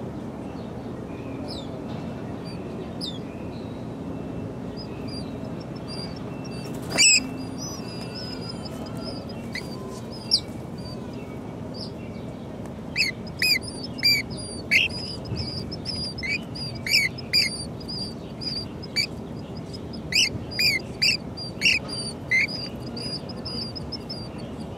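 Black phoebes calling at the nest: one loud, sharp call about 7 seconds in, then a run of about a dozen short, sharp chirps between about 13 and 22 seconds in, over a thin, high, steady peeping and a low background hum.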